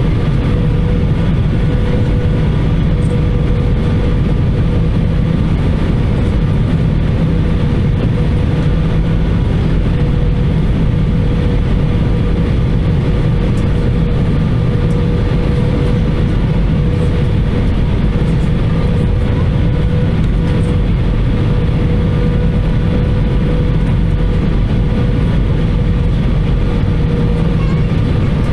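Airbus A320 cabin noise on the landing approach: the steady rumble of the engines and airflow with a thin, even hum above it, unchanging throughout.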